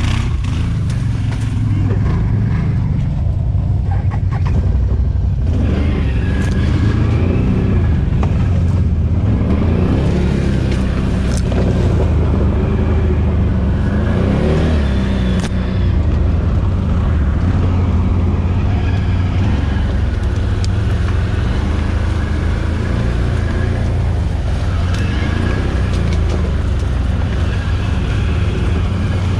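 ATV engine running under load, revs rising and falling again and again, with a few short knocks along the way.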